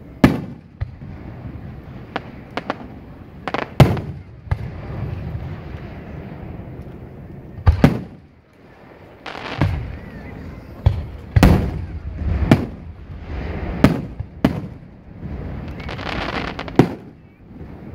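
Aerial fireworks shells bursting overhead: a run of about a dozen sharp booms at irregular intervals, some in quick pairs, with a couple of longer noisy stretches between them.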